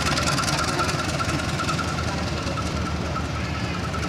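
Passenger train carriages rolling along the track, a steady rumble of wheels on rails with a thin, high, wavering tone running over it.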